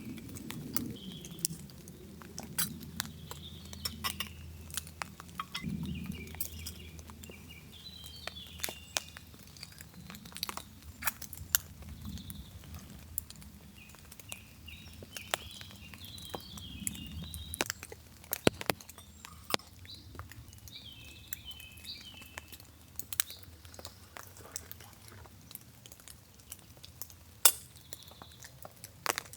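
Scattered drops of rain pattering on a tarp overhead, sharp irregular ticks, while birds sing short chirping phrases.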